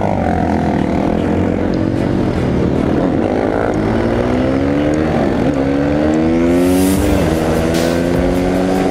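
An off-road vehicle's engine accelerating up through the gears. The pitch climbs twice and drops sharply at each shift, then holds steady.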